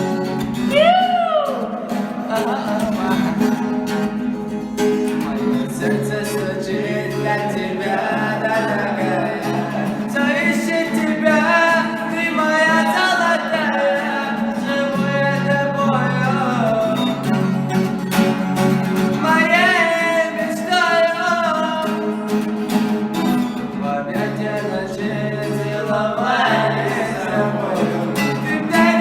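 A song: a singer's voice with sliding, wavering notes over steady guitar accompaniment.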